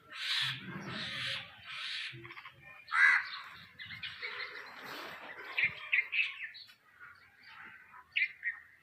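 Birds calling: a run of about four harsh, noisy calls in the first couple of seconds, a louder call near the middle, then short sharp chirps toward the end.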